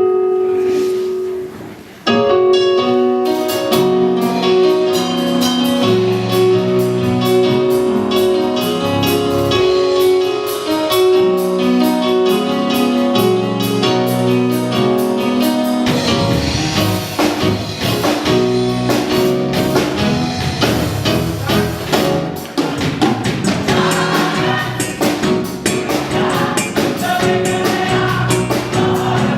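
Choir singing a gospel song with keyboard accompaniment. About halfway through, the music becomes fuller and busier, with percussion.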